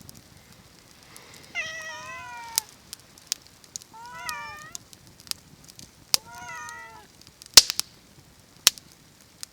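A cat meowing three times, each call bending up and down in pitch, about two seconds apart. Sharp crackles and pops from a wood campfire sound throughout, with the loudest pop about three-quarters of the way through.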